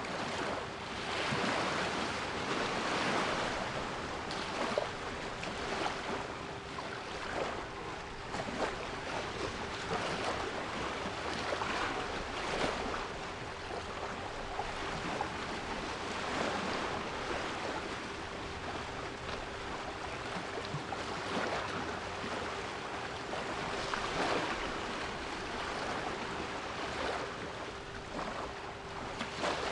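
Sea waves washing in and out in repeated surges, with a steady 396 Hz solfeggio pure tone held underneath.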